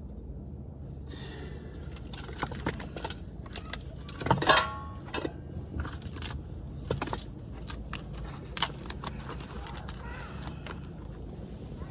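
Objects being handled: a scattered run of light clicks and clatters, with a louder clatter that rings briefly about halfway through and a single sharp knock later on.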